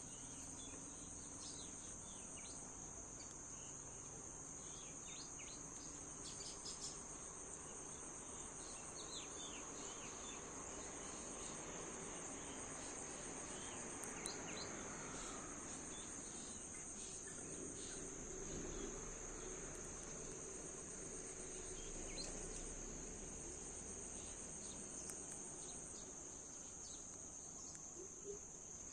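A steady, high-pitched insect chorus trilling without a break, with short faint high chirps scattered over it, mostly in the first ten seconds.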